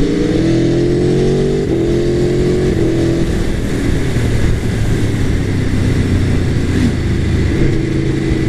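Aprilia Tuono Factory's V4 engine pulling hard, its pitch rising and then dropping suddenly about two seconds in and again about three seconds in as the quick shifter changes up without closing the throttle, then running steadier, with wind rushing past.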